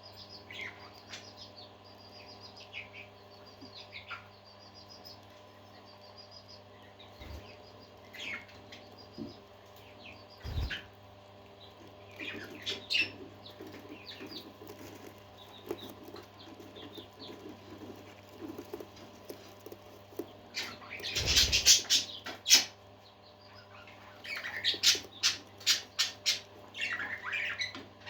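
Pet parakeets chirping and twittering in short, scattered calls over a steady low hum. A louder flurry comes a little past two-thirds of the way in, and a busy run of quick chirps follows near the end.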